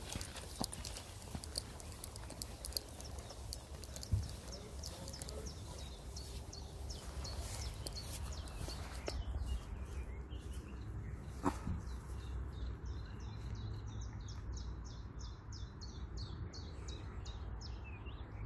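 Low wind rumble on the microphone with scattered clicks, and from about halfway through a bird chirping short high notes a few times a second.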